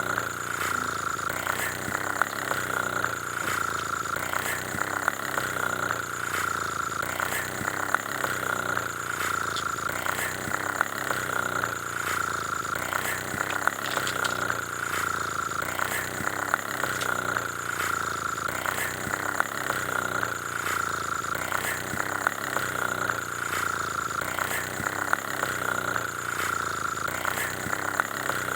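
Steady engine-like running sound: a constant mid-pitched hum with faint clicks repeating evenly through it.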